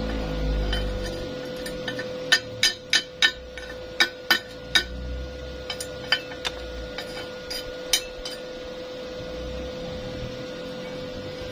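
A dozen or so sharp metallic taps with a brief ring, irregularly spaced between about two and eight seconds in, over a steady electrical hum: metal being struck lightly, as with a hammer.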